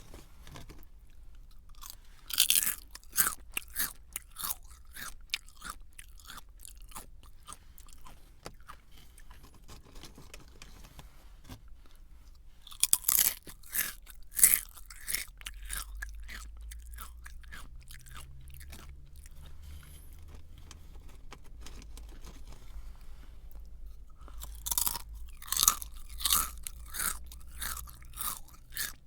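Close-miked crunching and chewing of a crunchy snack: three loud spells of crisp crackling bites about ten seconds apart, with softer chewing in between.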